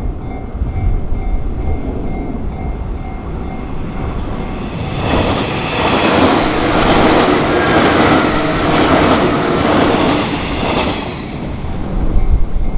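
A train on the JR Shin'etsu Line passes over a level crossing. Its rumble builds from about five seconds in, stays loud with wheels clattering over the rail joints, and eases off near the end.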